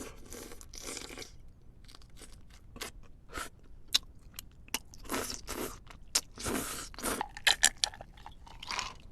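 A person chewing and biting crunchy food close to the microphone: irregular sharp cracks and crackles with a few longer bouts of crunching.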